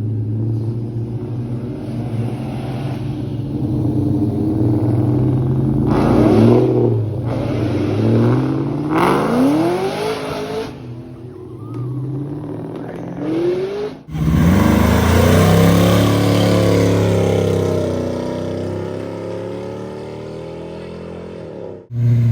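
Muscle car engines revving and accelerating hard: several sharp rising revs over a low rumbling idle in the first half. About fourteen seconds in, after a sudden cut, a loud full-throttle run slowly fades as the car pulls away.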